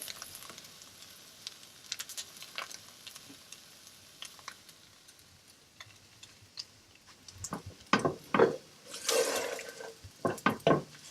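Food sizzling faintly in a frying pan while a utensil stirs it, with scattered small clicks. In the second half come a run of sharp knocks and scrapes of the utensil against the pan.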